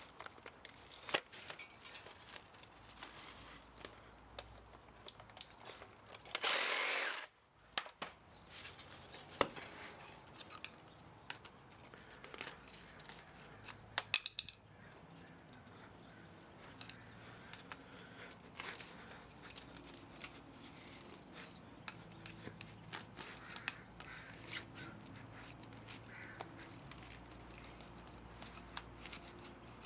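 Hand tools at work on a scrapped electric pump motor: scattered clicks, snips and small metal taps, with one louder noise about a second long some six seconds in.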